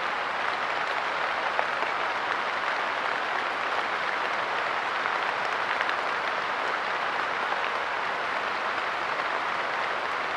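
Steady light rain, with many small drops pattering on a park bench.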